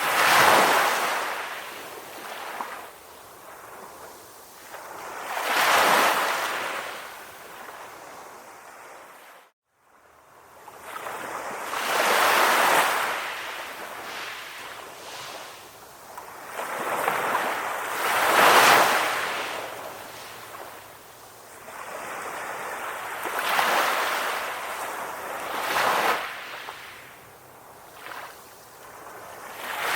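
Calm ocean waves washing onto the shore, each wave swelling and fading away about every six seconds. The sound cuts out completely for a moment about nine and a half seconds in.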